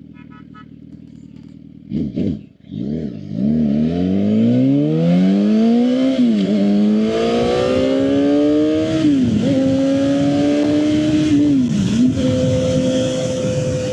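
Suzuki GSX-R 750's inline-four engine idling, blipped about two seconds in, then accelerating hard, its note rising through three quick upshifts before holding steady near the end.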